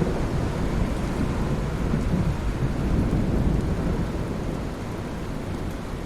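Steady heavy rain with a low rolling rumble of thunder that swells about two seconds in and eases off towards the end.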